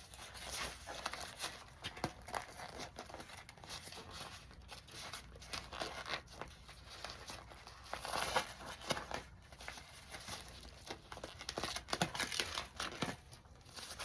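Irregular crinkling, rustling and tearing as a plant-dyed yarn bundle is unwrapped by hand, the wrapping pulled and torn away in a string of small crackles.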